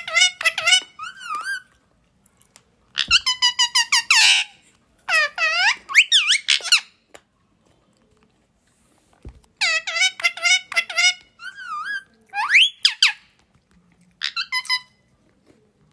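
Pet parrot calling in several bursts of short, high, squeaky whistle-like notes that bend up and down in pitch, with pauses of one to two seconds between bursts.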